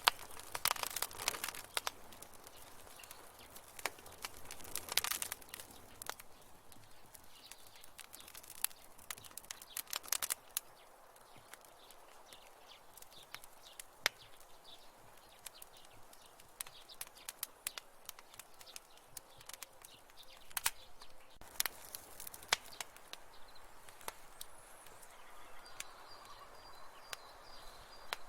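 Wood fire crackling in a fireplace: irregular pops and snaps over a soft hiss, with louder clusters of crackles about a second in, around five seconds and around ten seconds.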